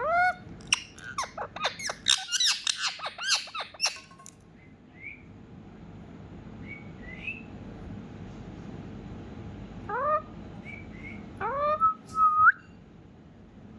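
Ringneck parrot calling: a rapid burst of sharp, rising squawks and clicks through the first four seconds, a few faint short chirps, then rising squeaky calls about ten seconds in and again near the end.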